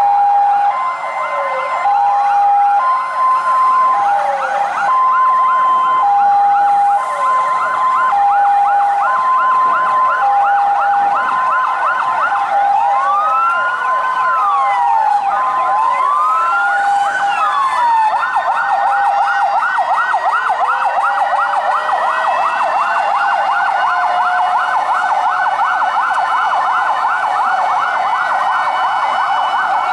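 Several fire truck sirens sounding at once. A two-tone hi-lo siren alternates between two steady notes until about halfway through, over rapid yelping sirens. Slow wails rise and fall now and then.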